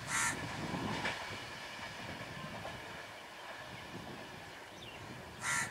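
Small ICF-built self-propelled rail car running along the track away from the listener, its rumble and wheel clatter slowly fading. Two short harsh calls cut through, one just after the start and one near the end.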